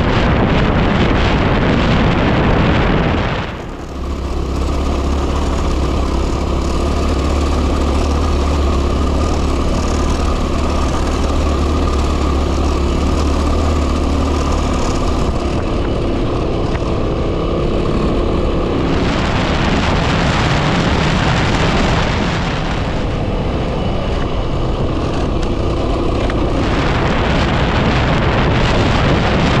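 Heavy wind buffeting on the microphone over the running engine of a 2010 Yamaha WR250R, a single-cylinder dirt bike, as it is ridden. The wind noise drops briefly about four seconds in.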